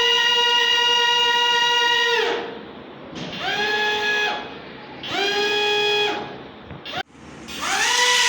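Toy RC jet airplane's small electric motor whining at full throttle, then throttled down and revved up again three times, the pitch rising and falling with each rev. Near the end the sound cuts off suddenly.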